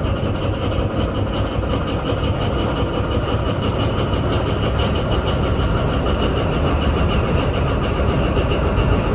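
Paxman VP185 V12 diesel engine of a Class 43 HST power car running steadily at idle after a cold start.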